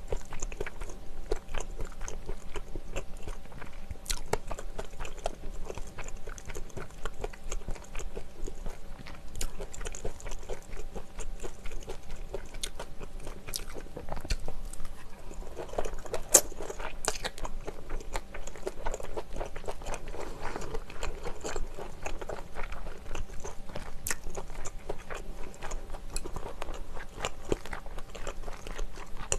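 Close-miked chewing and biting of mouthfuls of malaxiangguo, a spicy stir-fry of scallops, vegetables and glass noodles: a steady run of small clicks and crunches with a few louder, sharper clicks scattered through.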